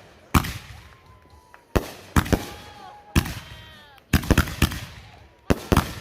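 Two Pure Heat consumer firework cakes firing together, a string of sharp bangs at irregular intervals with a quick flurry of bangs about two-thirds of the way in.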